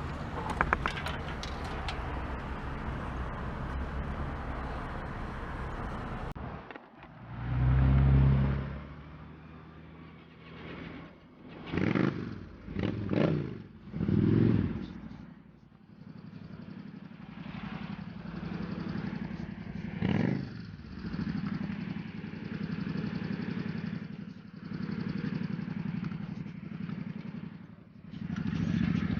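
Traffic noise at first, then a motorcycle engine running, with several short surges of revving and a steady hum in between.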